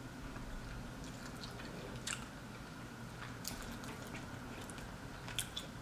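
Faint close-miked chewing of seafood, with a few short wet mouth clicks scattered through.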